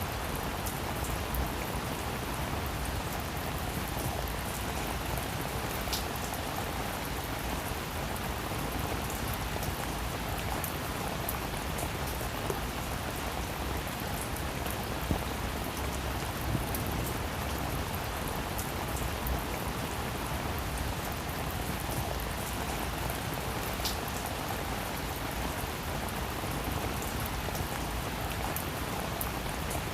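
Rain falling steadily on a roof: an even hiss of rain with scattered sharp ticks of single drops striking.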